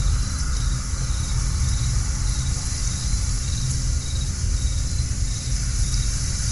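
Night ambience of crickets chirping in a regular pulsing trill over a steady low rumble.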